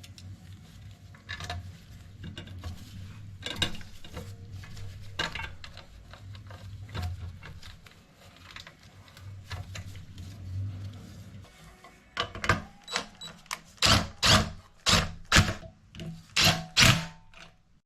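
Metal engine parts and hand tools being handled on a workbench: scattered light clicks over a low hum, then about a dozen sharp knocks in quick succession near the end.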